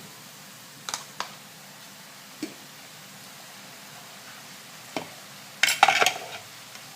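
A cooking utensil knocking and scraping against a pot while chicken is stirred among the aromatics: a few scattered clinks, then a louder cluster of clatters about six seconds in, over a faint steady sizzle.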